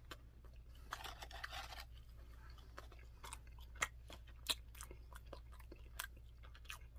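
A person chewing food close to the microphone: irregular soft crunches and wet mouth clicks, with a denser stretch of crunching about a second in.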